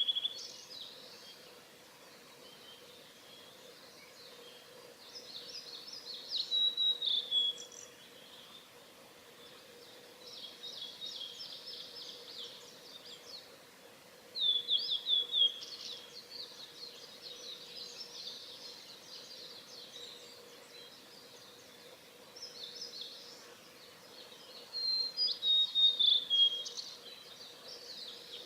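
Male blue-and-white flycatcher singing: phrases of clear whistles ending in fast, buzzy trills, repeated several times. Fainter song phrases come between the loud ones.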